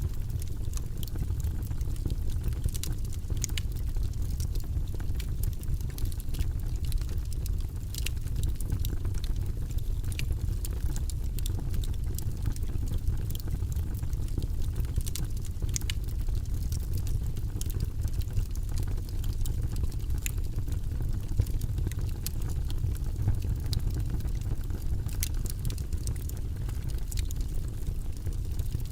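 Wood fire burning in a fireplace: a steady low rumble of the flames with frequent small, sharp crackles and pops from the logs.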